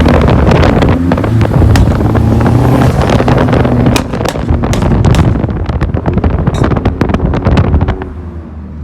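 A car engine revving hard, very close and loud enough to overload the recording, its exhaust crackling and popping throughout. It cuts back about 8 seconds in.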